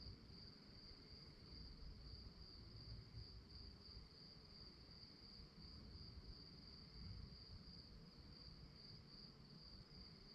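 Crickets chirping in a steady, continuous high-pitched trill, faint, over a low background rumble.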